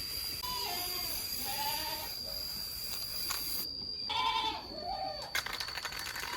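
A series of short, bleat-like animal calls, several in a row, some falling in pitch, over a steady high-pitched whine. A single sharp click about five seconds in.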